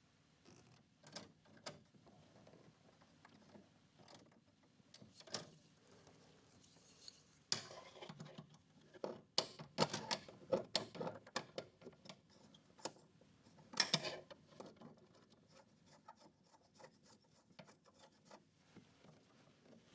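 Hands-on work noise: scattered clicks, taps and rubbing from handling tools and wire. It is busiest through the middle, with a louder knock about two-thirds through.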